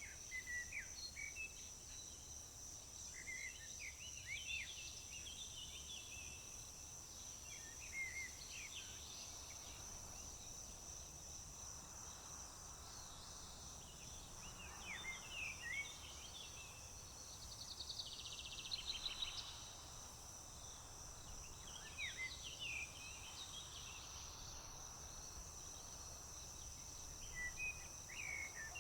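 Crickets trilling in a steady high drone, with songbirds singing short chirping phrases every few seconds and a brief buzzy call a little after halfway.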